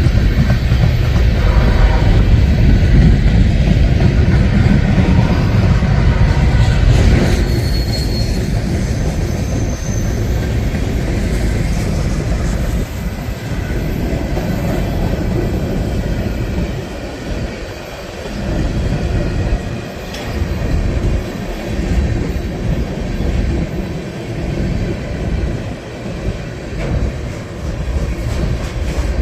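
Freight train rolling past close by, its wheels clattering over the rail joints. A heavy low rumble fills the first seven seconds, then the cars roll by more unevenly, with two brief high wheel squeals about eight and ten seconds in.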